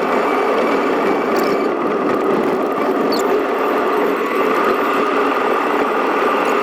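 Steady road and rain noise from a car driving in the rain, a dense, even rush with a few brief high squeaks.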